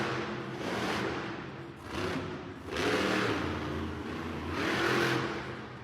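Monster truck engine revving hard in repeated surges, roughly one a second, rising and falling in pitch as the truck works the arena course.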